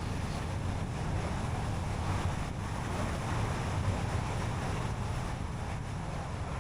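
Car driving on a road: steady tyre and road noise over a low rumble.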